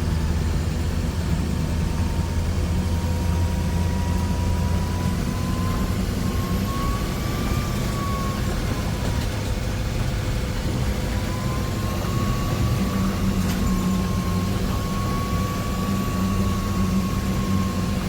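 Bus engine running steadily, a low hum with a faint whine that drifts gently up and down in pitch.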